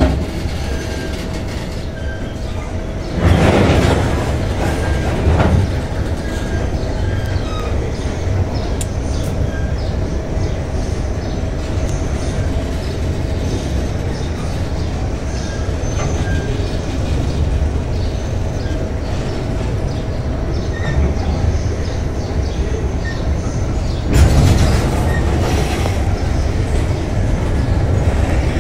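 Freight train of cement tank wagons rolling past on the rails: a steady low rumble of steel wheels and wagons, with two louder surges of noise, one about three seconds in and one near the end.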